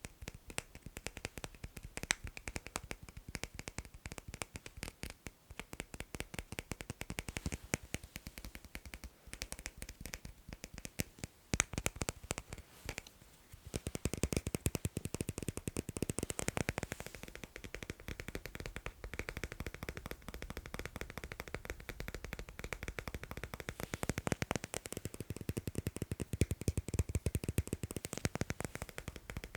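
Fast tapping on magnets: a dense, rapid stream of sharp clicks, turning fuller and louder about halfway through.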